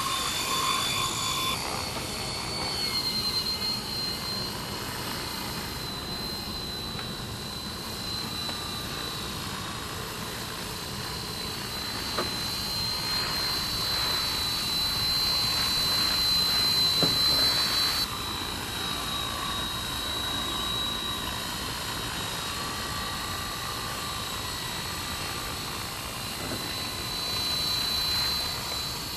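Electric RC helicopter in flight: a steady high motor whine that wavers slightly in pitch over the rush of the rotor and wind. It grows louder for a few seconds midway, then drops off abruptly.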